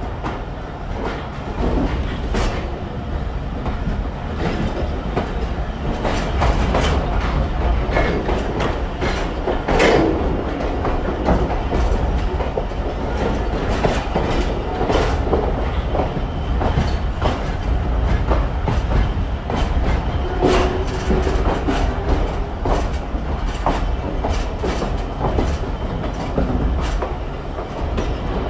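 Pakistan Railways express train running at speed: a steady rumble with many sharp clicks of the wheels passing over rail joints.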